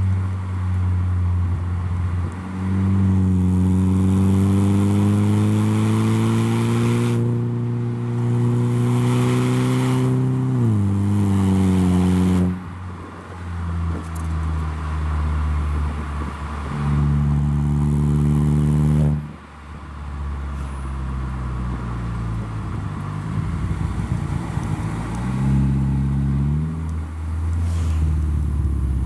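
Saab 9-3 running through a handmade stainless-steel exhaust with a switchable valve, pulling up through the revs several times. The first long climb eases off and then drops away, and shorter climbs follow; one of them cuts off sharply.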